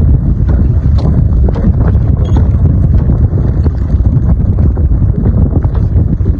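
Strong wind buffeting the microphone: a loud, continuous low rumble, with scattered light knocks and taps through it.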